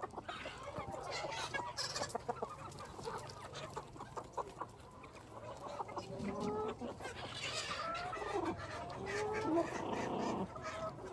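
Free-range chickens clucking, many short clucks at first, then longer pitched calls from a few birds during the second half.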